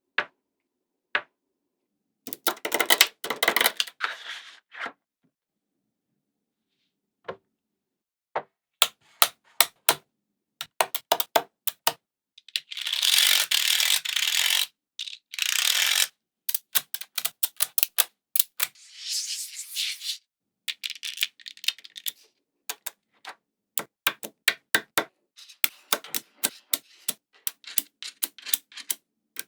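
Small magnetic balls clicking as they snap together, singly and in quick runs. A few longer clattering stretches, the longest about halfway through, sound like a handful of balls rattling together.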